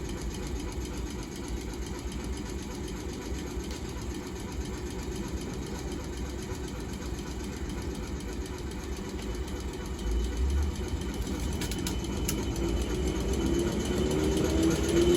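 Pair of Class 455 electric multiple units: a steady low rumble, then from about two-thirds of the way in a rising electric whine that grows louder toward the end.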